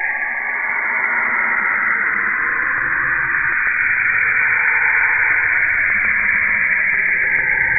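Saturn's radio emissions converted into sound: a steady, static-like hiss with faint wavering tones beneath it. A low rumble joins about three seconds in.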